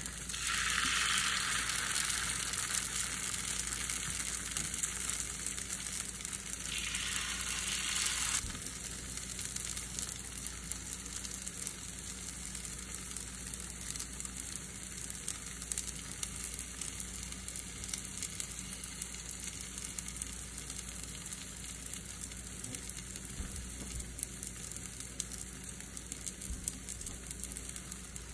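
Batter-coated potato pancakes frying in a nonstick pan: a loud sizzle as a fresh pancake goes into the pan, dropping after about eight seconds to a steady, quieter sizzle.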